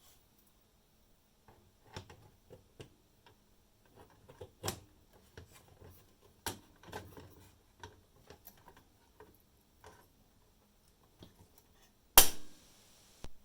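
Small hard objects being handled: irregular light clicks and knocks, then about 12 seconds in a loud sharp hit followed by a hiss that lasts about a second and stops suddenly.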